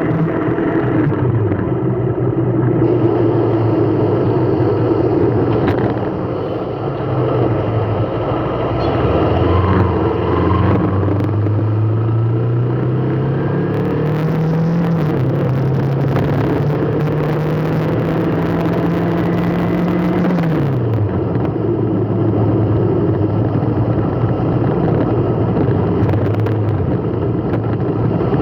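Road vehicle driving: steady engine and road noise, the engine's pitch rising about ten seconds in, holding, then dropping off a little past twenty seconds.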